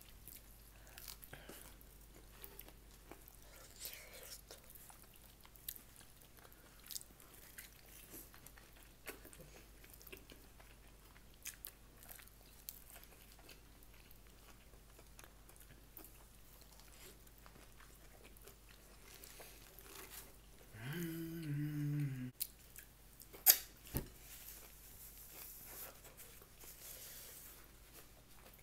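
A person chewing and biting into food, with many small mouth clicks and occasional crunches. About two-thirds of the way through comes a short hummed 'mm' that falls in pitch, then a sharp click, the loudest sound.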